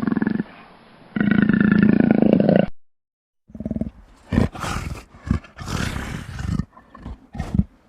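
Big cat roaring: a long, deep pitched roar with a short break, cut off abruptly. After a moment's pause comes a separate recording of several short, rough roars and growls.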